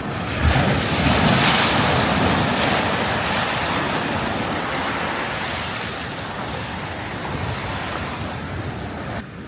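Ocean surf: a wave breaks about half a second in and washes out, its rush fading slowly, then the sound cuts off shortly before the end.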